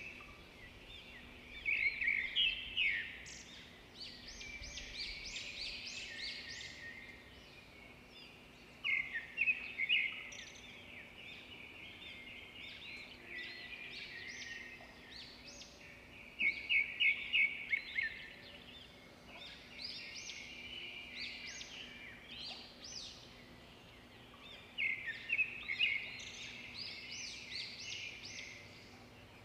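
Small birds chirping in rapid series. Louder clusters of chirps come about every seven or eight seconds, with softer chirping in between.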